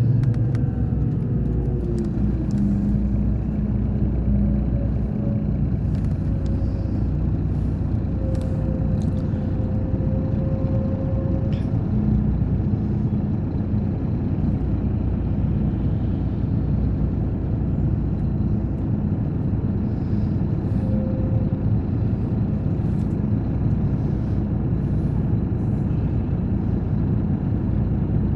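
Scania K420 bus engine running steadily, a low even rumble. The engine note drops in the first couple of seconds, then holds.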